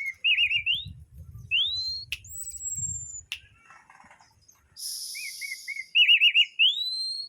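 Orange-headed thrush (anis merah) singing: short runs of looping whistled notes that end in a rising whistle, the phrase given twice, with a high falling whistle between them. Two sharp clicks and a brief harsh hiss come in the middle.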